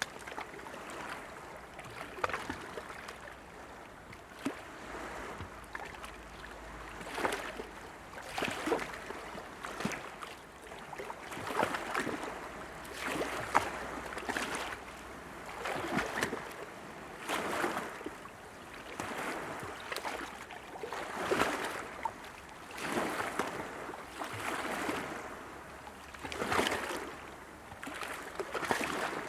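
Small sea waves lapping and splashing in quick, irregular surges about every one to two seconds.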